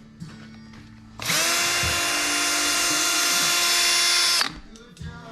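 Electric drill spinning an 80-grit abrasive to clean rust off an engine block's deck surface. It runs as a steady high whine that starts about a second in, holds for about three seconds and cuts off.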